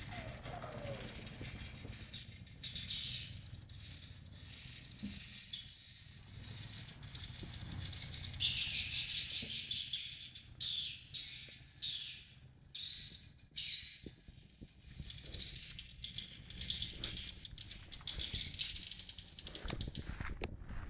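Swiftlets twittering: a steady high-pitched chirring, then one long loud burst of chirps followed by five shorter bursts in quick succession.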